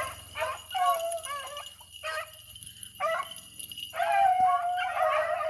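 A pack of beagles baying as they run a rabbit track, with several hounds' drawn-out voices overlapping. The cry eases off briefly about two seconds in and picks up again.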